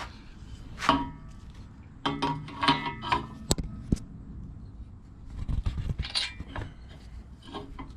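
Metal clinks and clanks of a stripped-down engine being turned over by hand, some knocks with a short metallic ring, and a few low thuds past the middle.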